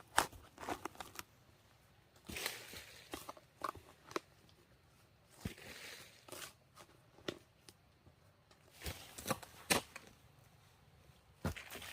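Irregular sharp snaps, taps and short rustles of sticks and leaves being handled and broken.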